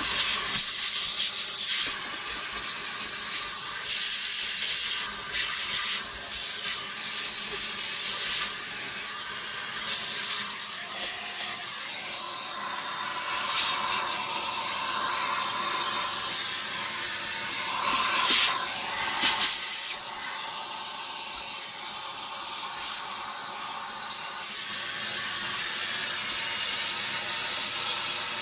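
Dusty vacuum cleaner parts being cleaned: an irregular hissing, scrubbing noise that swells and fades in bursts, with a couple of louder surges a little past halfway.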